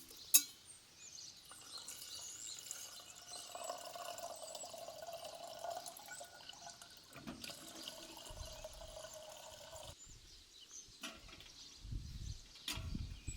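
Water being poured and trickling, with a sharp click about half a second in.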